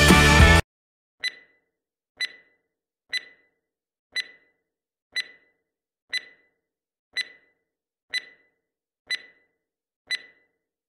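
Electronic countdown beeps: about ten short, high single-tone beeps, one a second, counting down to the next workout interval. Background music cuts off in the first second before the beeps start.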